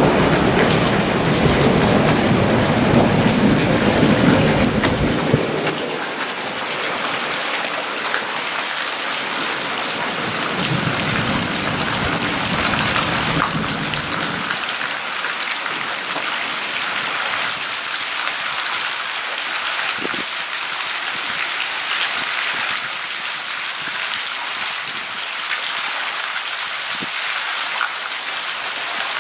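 Heavy rain falling steadily, with a low thunder rumble that dies away about five seconds in and a fainter second rumble from about eight to fourteen seconds in.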